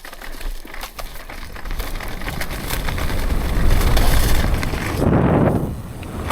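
Mountain bike rolling fast down a dirt jump line: tyres rumbling and crunching on hard-packed dirt under wind rushing over the microphone, the noise swelling as speed builds, with a heavier rush about five seconds in.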